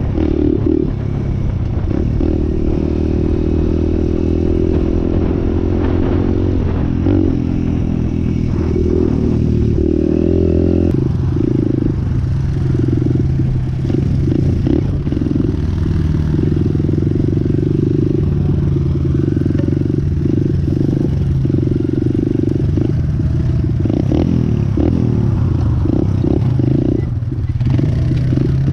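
Dirt bike engine running while being ridden, its pitch shifting with throttle changes, most clearly about ten seconds in, with clattering knocks from the ride.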